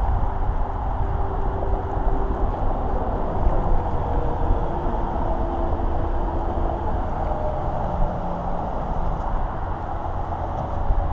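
Wind buffeting the microphone on a moving bicycle, a steady low rumble, with tyre noise on the paved trail.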